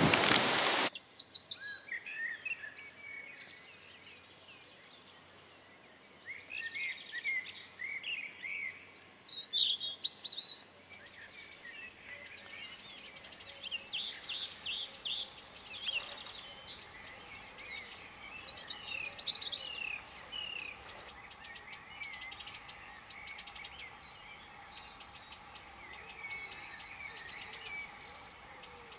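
A loud rush of wind noise cuts off about a second in, leaving small birds chirping and singing, with quick rising and falling notes and fast high trills over a faint outdoor background.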